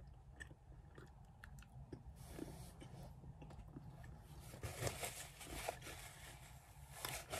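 Faint chewing of a mouthful of honey-filled dark chocolate, with small wet mouth clicks.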